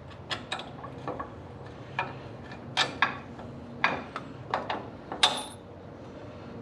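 Metal hand tools and hardware clinking and clacking against metal: about a dozen sharp, irregular clinks, the loudest about three and five seconds in.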